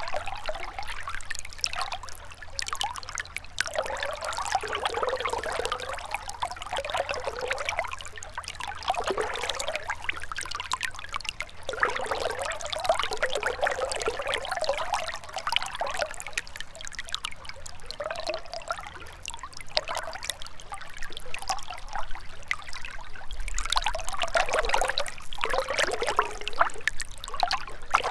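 A gentle river trickling and gurgling over stones, the flow swelling and easing every few seconds.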